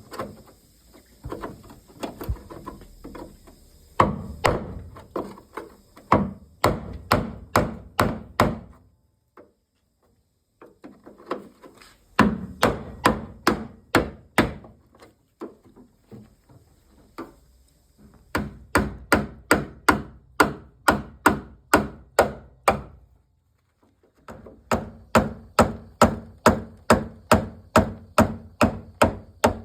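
Hammer striking a chisel to cut through a car's sheet-metal wing and its spot welds, in quick runs of about three to four blows a second separated by short pauses.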